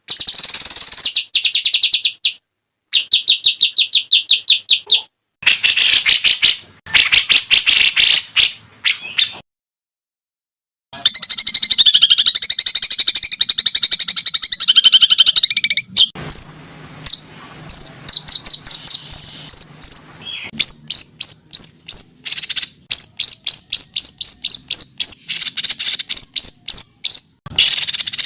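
High-pitched songbird calls edited together for bird-song training: rapid rattling trills of fast clicks alternating with clear chirping, in bursts that start and stop abruptly, with a silent break about ten seconds in and a dense run of chirps and fast repeated notes after it.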